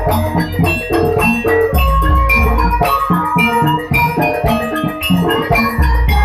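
Gamelan music for a jaranan dance: struck metal percussion ringing out a busy pattern over drums, with a deep gong-like stroke about every two seconds.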